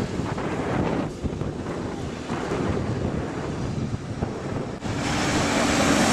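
Airbus A380's four jet engines roaring at takeoff power under heavy wind noise on the microphone; the roar swells and turns hissier about five seconds in.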